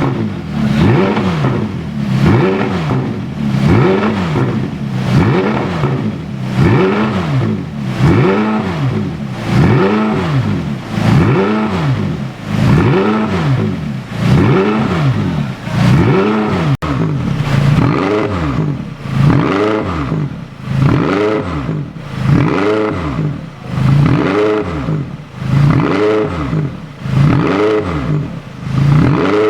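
McLaren 570's twin-turbo V8 revved again and again through a custom dual exhaust, each rev rising and falling in pitch, about one a second, a little quicker in the second half.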